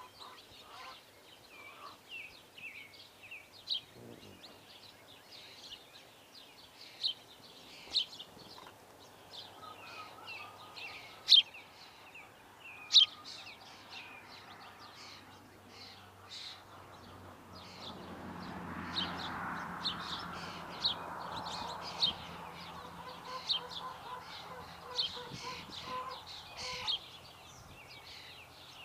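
Small birds chirping over and over in short, high calls, a few of them sharply louder. Past the middle a steady rushing noise with a faint hum rises under the chirps, then fades out near the end.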